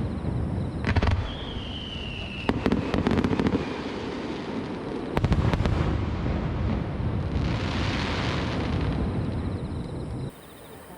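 Fireworks shells bursting, several in quick succession, each boom followed by a long rumbling echo off the surrounding mountains. A high whistle falls in pitch after the first burst, and a hissing crackle comes about eight seconds in. The sound drops away abruptly near the end.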